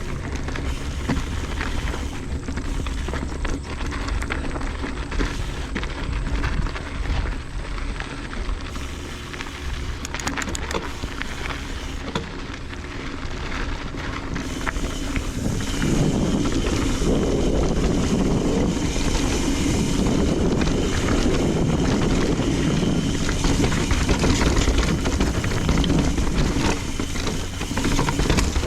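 Mountain bike riding down a dirt trail: wind rushing over the microphone and tyres rolling over dirt, with frequent knocks and clatter from the bike. It gets louder and rougher from about halfway through as speed builds.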